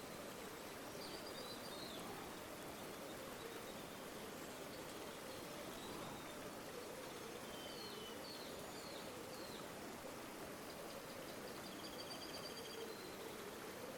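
River water running steadily, with faint small-bird chirps about a second in, a few more around the middle, and a short rapid trill near the end.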